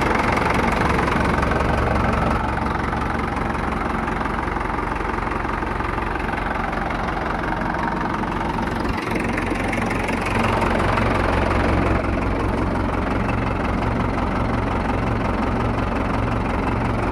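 Mahindra 585 DI tractor's direct-injection diesel engine idling steadily.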